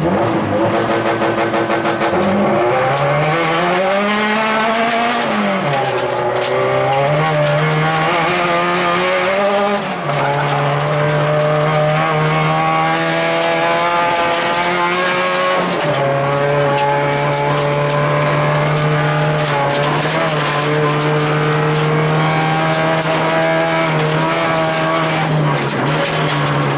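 Acura RSX rally car's four-cylinder engine heard from inside the cabin, driven hard: the revs climb and drop with gear changes about 6, 10 and 16 seconds in and hold steady in between. Tyre and road noise runs underneath.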